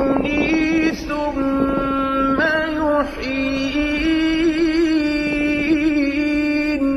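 Chanted singing: a voice holding long, drawn-out melodic notes with small wavering ornaments, pausing briefly about a second in and again about three seconds in.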